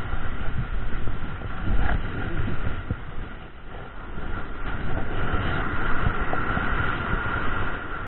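Rumbling wind and surf noise on an action camera's microphone on an ocean beach, with a faint steady high whistle underneath; the rumble eases for a moment around the middle.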